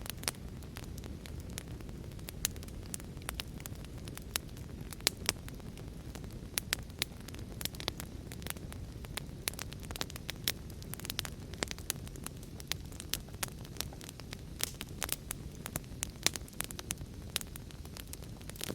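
Wood fire crackling, with frequent irregular sharp pops, over a steady low rumble.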